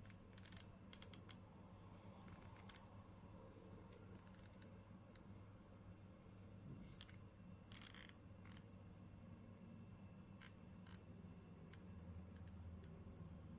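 HP Victus 16 laptop's screen hinge creaking and clicking faintly in short, irregular bursts as the lid is worked, an abnormal hinge noise. A steady low hum runs underneath.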